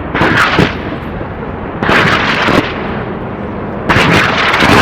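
Intro sound effect: three loud, sudden noisy bursts about two seconds apart, over a steady rushing noise.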